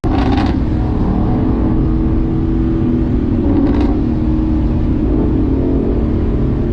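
Car engine running at a fairly steady speed over a heavy low rumble, its pitch holding level with only slight rises and dips.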